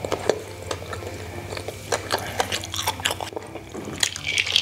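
Close-up chewing of a sticky glutinous rice dumpling coated in granulated sugar: irregular wet mouth clicks with a sugary crunch.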